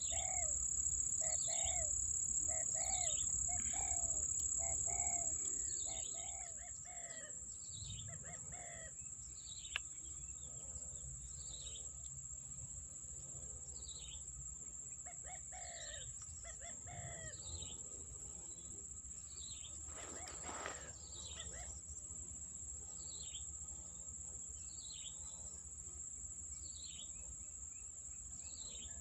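Wild birds calling in quick, repeated downward-sliding chirps, over a steady high-pitched insect drone. There is a single sharp click about ten seconds in.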